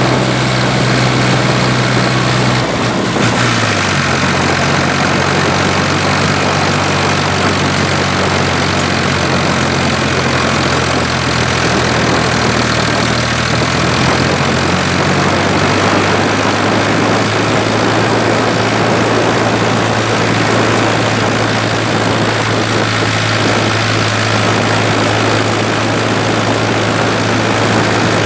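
Ford 3000 tractor's three-cylinder engine running steadily while the tractor is driven with a loaded trailer. The engine note drops about three seconds in, then holds steady.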